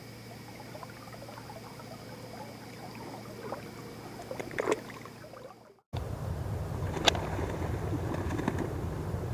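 Quiet riverside night ambience with a faint steady hum, two faint steady high tones and a few small handling clicks. After an abrupt cut about six seconds in, the steady, louder rush of river water takes over.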